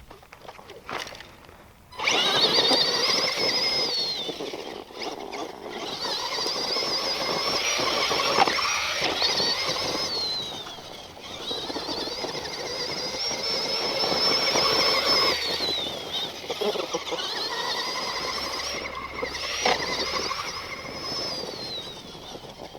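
Axial SMT10 Grave Digger RC monster truck's electric motor and all-metal gear transmission whining under throttle. The whine starts about two seconds in, then rises to a held high pitch and falls off again about four times as the throttle is applied and released.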